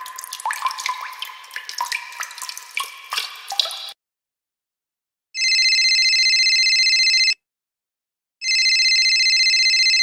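Water dripping, a quick run of drops splashing into water for about four seconds. After a short pause, a telephone rings twice, each ring a steady trill about two seconds long.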